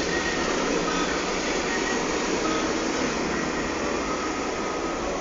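Steady rushing noise of a heavy rainstorm and floodwater, a constant even hiss with no breaks.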